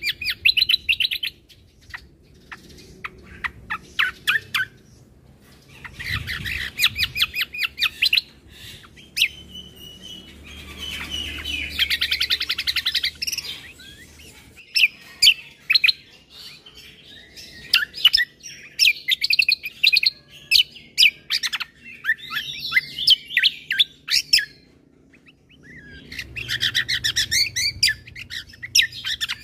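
Cucak kombo (kecial kombo) singing in bursts of rapid high chirps and trills with short pauses between them, and a denser warbling run a little before the middle.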